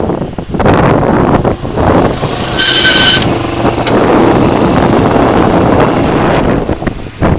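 Honda XR250R dirt bike's air-cooled four-stroke single-cylinder engine running while the bike is ridden, under heavy wind noise on the microphone. A brief high tone sounds about three seconds in.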